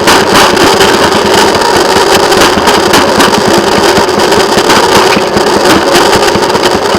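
Railroad motorcar's engine running loud and steady, with a fast, even pulsing.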